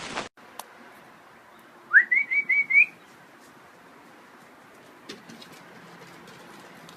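A bird's high whistled call: five quick rising notes, each a little higher than the last, about two seconds in.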